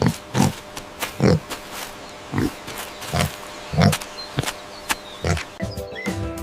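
Pig grunting in short, repeated grunts, about one or two a second. Music with steady tones comes in near the end.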